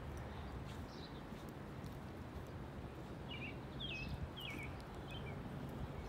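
Outdoor ambience with a steady low rumble, and a bird chirping a few short calls from about three to five seconds in.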